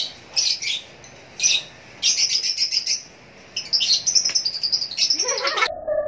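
Small birds chirping and twittering in quick repeated bursts and fast trills. Near the end a falling whoosh cuts sharply into music.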